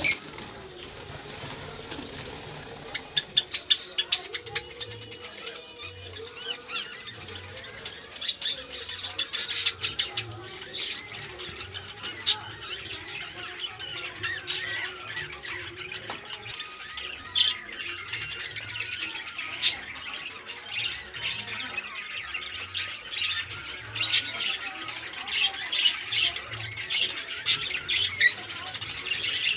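A group of small pet parrots, kept as love birds, chirping and squawking continually in many short, high calls, with a few sharp clicks among them.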